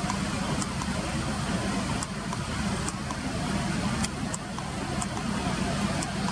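Steady low rumble of road traffic, with faint short high-pitched ticks about once a second.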